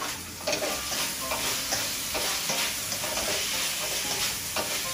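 Thin pork strips sizzling as they fry in a little cooking oil in a wok, with a spatula scraping and turning them around the pan in short, repeated strokes. The water has cooked off the pork and it is now frying in oil to turn crispy.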